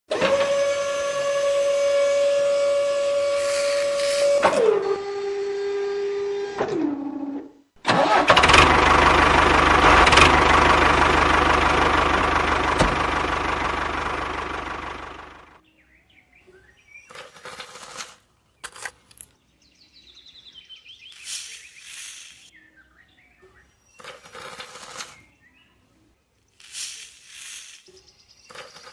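Small electric motor whining at a steady pitch, dropping lower in two steps before it stops, then a louder, rougher running sound that fades away, followed by faint scattered short sounds.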